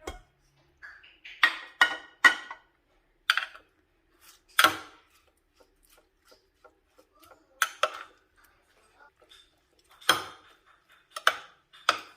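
Kitchen dishes and utensils being handled: about ten separate clinks and clatters at irregular intervals, some ringing briefly.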